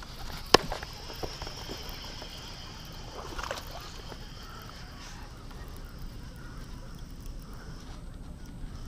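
Steady insect buzz over a still lake, with one sharp knock about half a second in and a few lighter clicks and taps after it, typical of gear being handled in a kayak.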